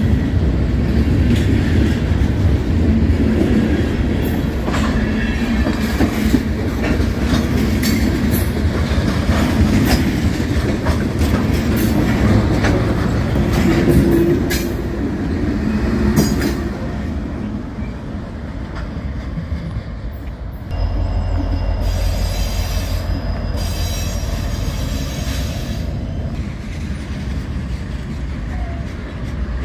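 Freight train rolling past close by, with steel wheels clattering over rail joints and some wheel squeal. About halfway through, a Norfolk Southern GE Dash 9 diesel locomotive passes close and its engine is loudest. After a sudden change about two-thirds in, a locomotive's diesel engine rumbles steadily as the train moves on.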